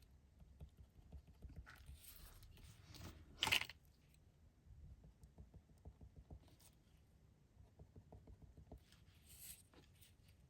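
Faint scratching of a pen drawing faux-stitch dashes on paper, with light paper handling and one brief louder scrape of paper about three and a half seconds in.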